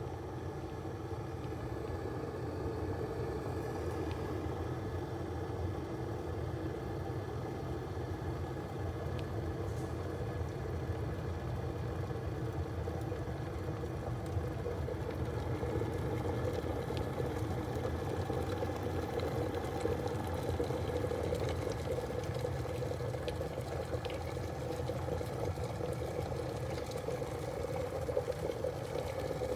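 Electric kettle heating water toward the boil: a steady rumbling hiss of bubbling water that grows slightly louder and higher in pitch through the second half.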